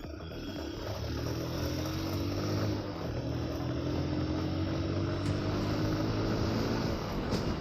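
Motorcycle engine running under way, heard with wind and road noise; its pitch climbs gently as it accelerates, then holds roughly steady.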